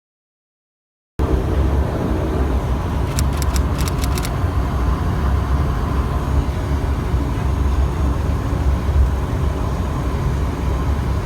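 Steady low cabin drone inside a Bombardier Q400 turboprop airliner on the ground, cutting in suddenly about a second in. A quick run of light clicks comes around three to four seconds in.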